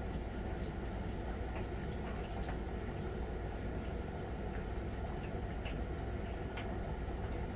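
Miele Novotronic W921 front-loading washing machine running with water in it: a steady low hum with scattered short ticks and trickles of water throughout.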